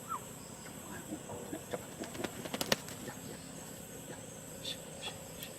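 Crickets chirring, a steady high-pitched drone, with scattered short clicks and a quick run of clicks about two and a half seconds in.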